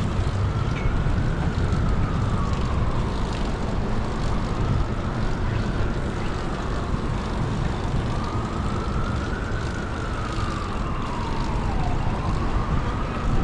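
An emergency vehicle siren wailing, its pitch rising and falling slowly about every four seconds. Underneath is a steady low rumble of traffic and wind.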